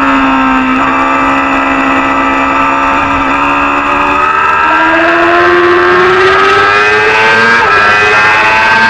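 Small-displacement supersport racing motorcycle engine under race load: the revs drop and hold low for the first few seconds, then climb steadily from about halfway through, with a brief hitch near the end as it accelerates.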